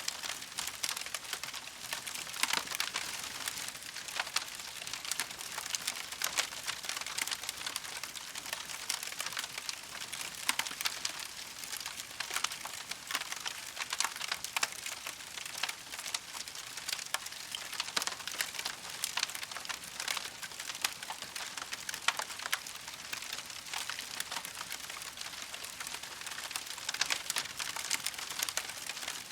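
Campfire crackling: a steady, dense stream of small sharp snaps and pops over a soft hiss.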